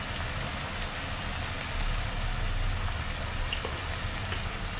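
Chicken pieces and onions sizzling as they sauté in oil in a glass pot, a steady sizzle with a few faint ticks. This is the sautéing stage before water is added.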